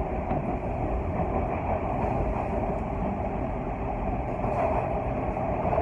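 Subway train running between stations, heard from inside the car: a steady, unbroken running noise of wheels on rails and motors.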